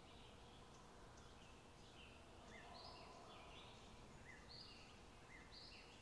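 Faint nature ambience: a low background hiss with distant bird calls, short high chirps repeating about once a second, some stepping down in pitch.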